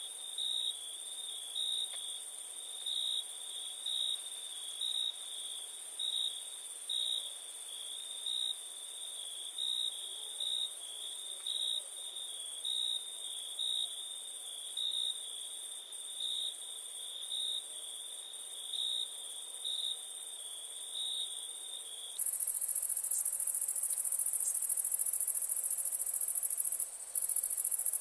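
Night crickets chirping: one pulses in regular chirps a little over once a second over a steady high-pitched trill. About 22 seconds in, the pulsed chirping stops suddenly and a louder, continuous high-pitched insect trill takes over, breaking off briefly twice near the end.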